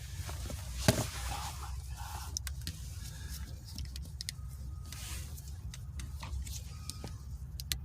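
Hand tools working on a car's shifter mounting bolts: scattered metallic clicks and one sharp knock about a second in, over a steady low rumble.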